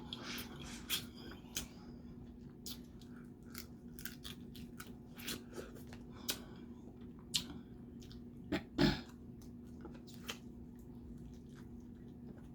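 Close-miked eating of snow crab legs and crawfish: shells cracking and snapping in short, scattered clicks, with chewing and biting, loudest in a quick cluster about nine seconds in.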